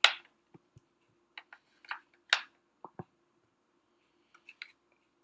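Scattered light clicks and taps, about ten in five seconds, from handling food while topping naan bread with pulled chicken, over a faint steady hum.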